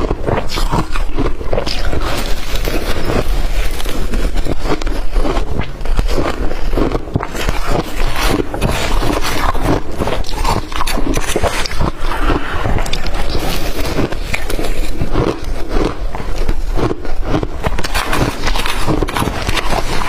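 Close-up crunching of blender-crushed ice being bitten and chewed: a dense, continuous run of crackling bites.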